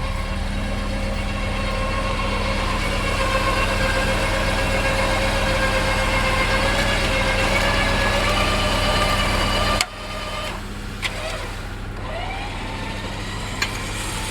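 Vehicle engine running steadily under a held whine that rises slightly in pitch and cuts off suddenly about ten seconds in, leaving the lower engine hum; two sharp clicks follow near the end.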